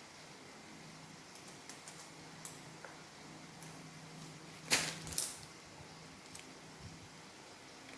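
Small plastic parts of a Roomba robot vacuum being handled and fitted together: scattered light clicks, then two sharp clicks close together a little past the middle, over a low steady hum.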